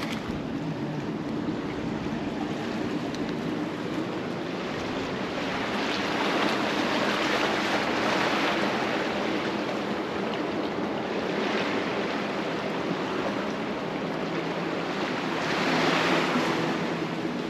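Sea waves washing against a concrete tetrapod breakwater, the wash swelling twice, once in the middle and once near the end, over a steady low hum.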